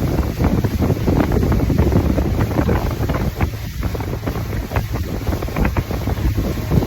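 Wind buffeting the microphone on a moving motorboat, over the steady noise of the boat's motor and hull.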